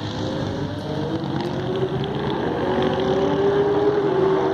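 Superbike engines running as several motorcycles ride past, with one engine note climbing slowly in pitch as it accelerates.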